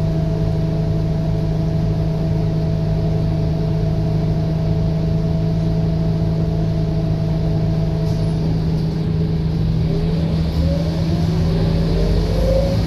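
Scania K230UB bus's diesel engine running steadily at idle with a constant hum. About eight seconds in the steady tone drops away and the engine revs up, its pitch rising as the bus accelerates.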